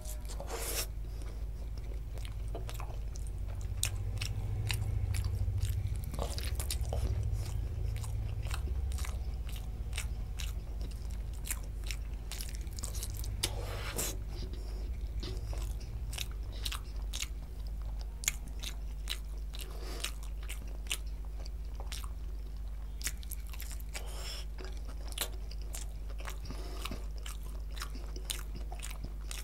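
Close-miked chewing of bhatura and mutton curry: wet smacking and many short, sharp mouth clicks, over a steady low hum.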